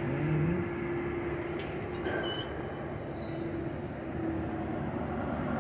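Freight train of enclosed autorack cars rolling past close by: a steady rumble, with a faint thin squeal held through the first half.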